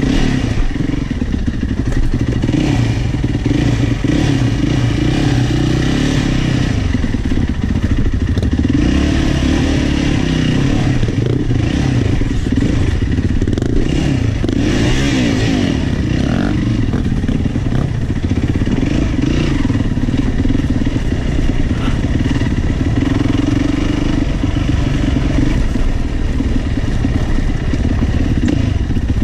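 Single-cylinder four-stroke enduro motorcycle engine running continuously while riding, the revs rising and falling.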